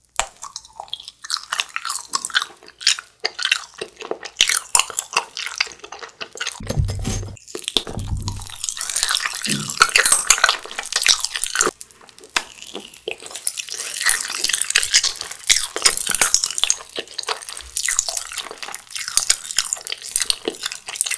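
Close-miked wet chewing of a soft, chewy fried-egg gummy jelly: dense, irregular sticky smacks and clicks of the mouth. Two low thuds come about seven and eight seconds in.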